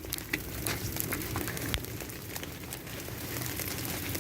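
Ice pellets from freezing rain landing with many small, irregular ticks and crackles.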